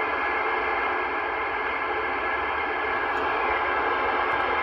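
CB radio receiver putting out a steady hiss of static through its speaker while the channel is open.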